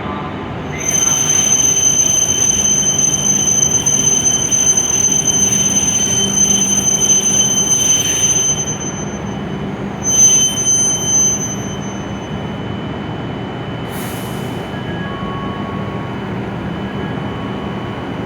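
E7 series Shinkansen train on the platform track with a loud, steady, high-pitched wheel and brake squeal for about seven seconds over the train's rumble, then a shorter squeal a couple of seconds later. A short hiss follows near the end.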